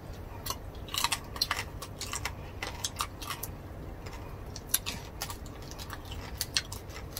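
Close-up eating sounds of people chewing and biting pieces of roasted pig head (lechon): irregular crisp crackles and mouth clicks.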